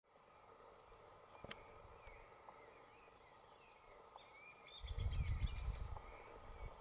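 Small birds give faint, scattered chirps and short down-slurred whistles, then a quick run of about ten high, even notes just before the five-second mark. A low rumble starts at the same time and is louder than the birds.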